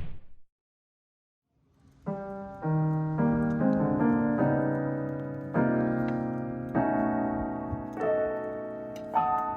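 Background piano music: a slow run of chords and notes struck roughly once a second, each left to ring, starting about two seconds in after a brief noisy sound at the very start.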